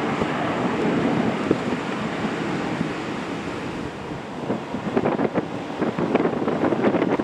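Wind buffeting the microphone: a steady rushing noise, broken by irregular gusty thumps that grow more frequent in the second half.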